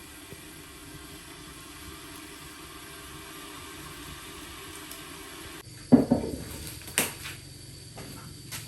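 A steady hiss, then a loud knock with a short ringing about six seconds in, followed by a sharp click a second later and a fainter one near the end.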